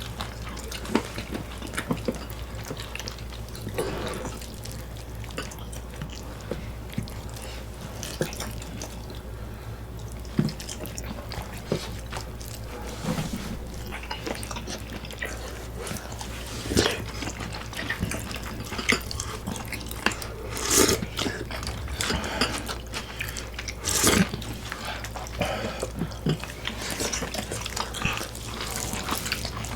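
Eating sounds: wet chewing and smacking of saucy food, with many short clicks and a few louder bursts in the second half.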